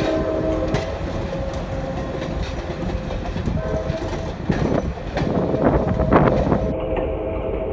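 Grand Canyon Railway excursion train rolling out, with the rumble and irregular clicking of its wheels and cars. The train's multi-note horn chord sounds at the start, fades under a second in, and comes back about three and a half seconds in and again near the end.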